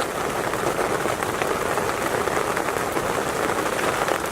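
Steady rain pattering, a dense hiss of many small drops.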